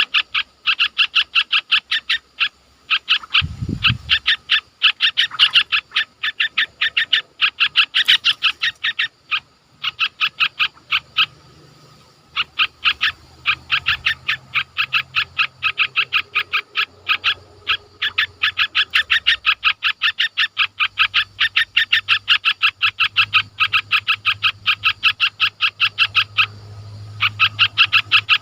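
An animal calling in a long, even run of short high chirps, several a second, with two brief pauses. There is a single low thump a few seconds in.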